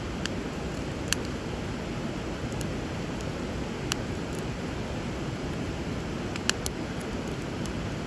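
Wood fire crackling, with sharp single pops every second or two, over the steady rush of flowing river water.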